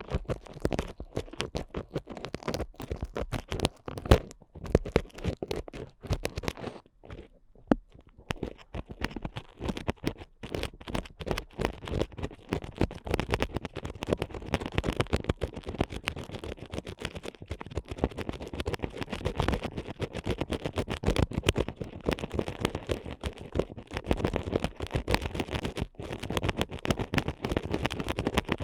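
Ear picks scratching and scraping rapidly and close up, in dense strokes that thin out briefly about seven seconds in before picking up again.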